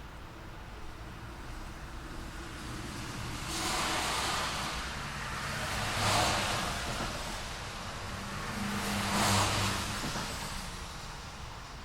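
Road traffic: three cars pass one after another, each a swell of tyre hiss and engine noise that rises and fades, over a steady low rumble of traffic further off.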